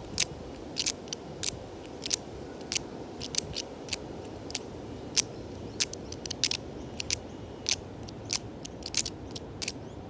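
Natural objects played as scrapers in improvised percussion: sharp, short clicks and rasps, a few a second in an uneven rhythm over a kept pulse.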